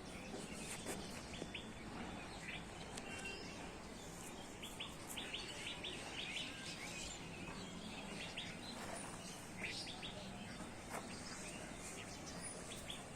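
Birds chirping in short, scattered calls over a steady background of outdoor noise.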